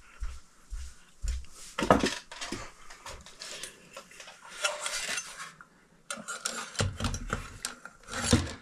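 Metal ceiling fan mounting hardware being handled and fitted: irregular clinks, knocks and scraping rattles, with a short lull about six seconds in.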